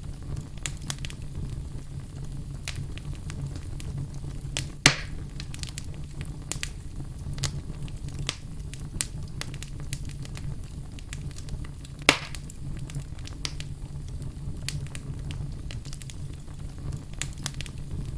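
Wood fire burning in a fireplace: a steady low rumble of flames with constant small crackles, and two louder sharp pops of the burning logs, about five seconds in and again about twelve seconds in.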